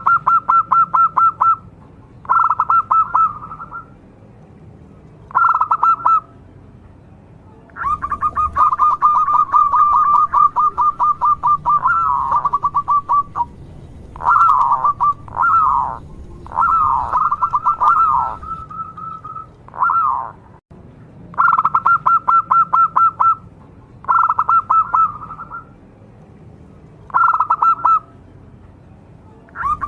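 Zebra dove (perkutut) singing: bouts of fast rattling cooing notes, each bout a second or two long with short pauses between, and one longer run in the middle where the notes bend up and down.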